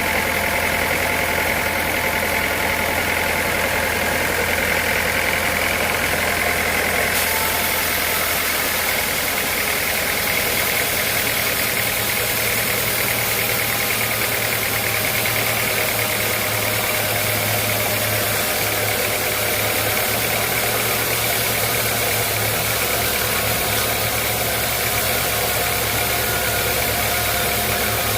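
Sawmill machinery running steadily, a continuous mechanical hum. Its low drone shifts up a step about ten seconds in.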